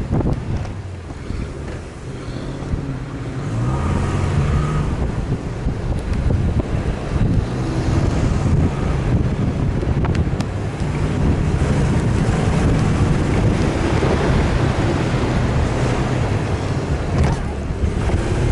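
4x4 vehicle driving, its engine pitch rising and falling, with wind noise on the microphone.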